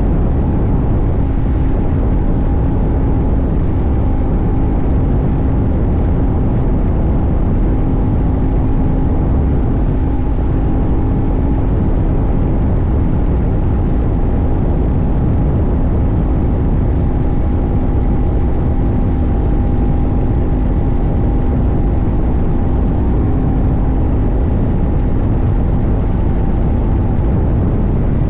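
CFMoto 800NK's 799 cc parallel-twin engine running at a steady cruise, its note holding almost the same pitch throughout, over a heavy low rumble of wind and road noise.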